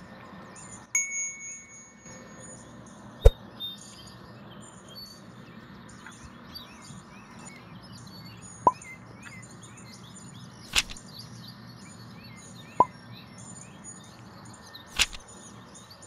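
Small birds chirping and tweeting over a low steady hum, with a brief held tone about a second in and a handful of sharp clicks and short pings spread through.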